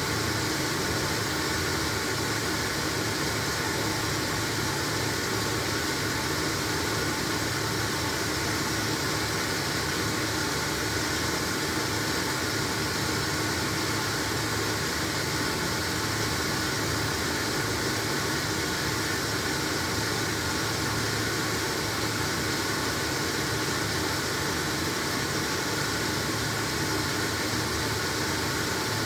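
LG washing machine running through a wash load of blankets: a steady, even mechanical noise with faint steady tones.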